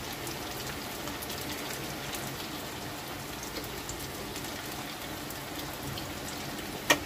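Pieces of bread dough shallow-frying in hot oil in a kadai: a steady sizzle with fine crackling. A single sharp click near the end.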